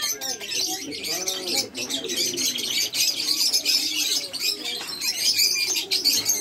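Many small birds chirping in a dense, continuous chorus, with pigeons cooing in low repeated calls underneath.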